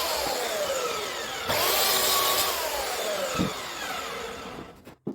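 Power mitre saw cutting MDF architrave moulding in two bursts: each time the motor runs at full speed, then its pitch falls as the blade spins down, the second spin-down dying away near the end. A short knock follows.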